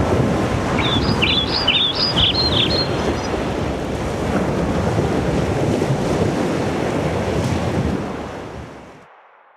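Ocean surf washing steadily, with a short run of bird chirps from about a second in; the whole sound fades out near the end.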